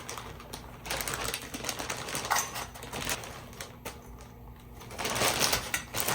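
Dog food being dished into bowls: rapid clicking, rattling and scraping in two spells, the second starting about five seconds in.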